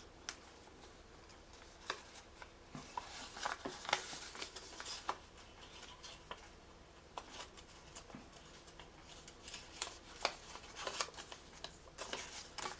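Paper being folded and creased by hand: scattered irregular crinkles, rustles and light taps.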